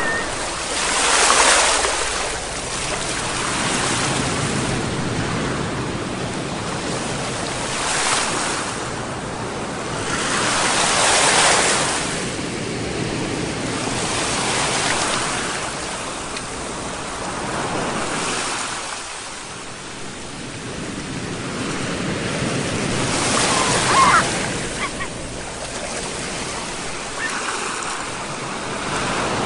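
Sea surf: waves breaking in slow swells every several seconds over a steady wash of moving water.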